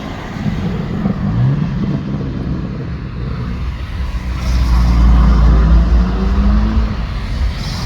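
Car engine revving, its pitch climbing twice in the first two seconds, then a loud, deep engine rumble from about halfway through.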